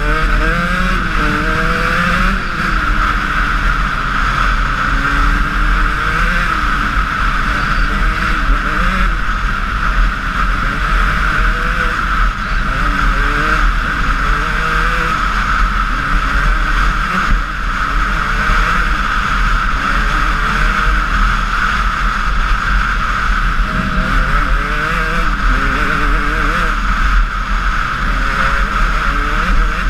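Honda CR125 two-stroke motocross bike being ridden, the engine revving up and dropping back again and again as the rider accelerates and shifts.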